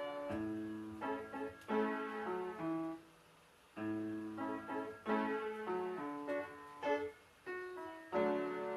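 Mid-1950s Everett piano played in short phrases of single notes and chords, with a brief pause about three seconds in. The piano is in need of tuning.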